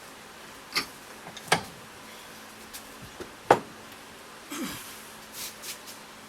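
A few sharp separate knocks and clunks of metal tools and fork parts being handled, three louder ones spaced a second or two apart, then a duller thud and a short scrape near the end.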